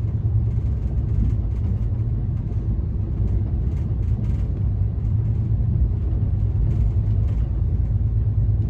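Steady low rumble of a moving passenger train, heard from on board.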